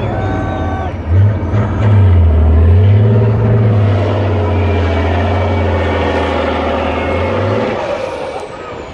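Off-road trial truck's engine revving in short blips, then held at high revs under load for several seconds before easing off near the end, with a faint falling whistle as it dies down.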